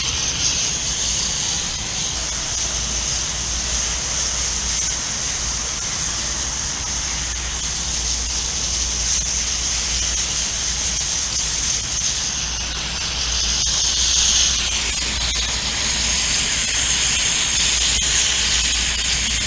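Water spray from a hose hissing steadily as it rinses a dirty condensing unit coil, with a steady low hum underneath. The hiss shifts in tone for a few seconds around twelve seconds in as the spray is moved.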